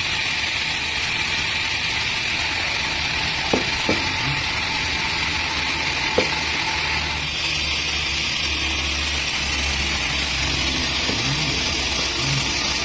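Chainsaw engine running steadily, with a few short sharp knocks in the middle.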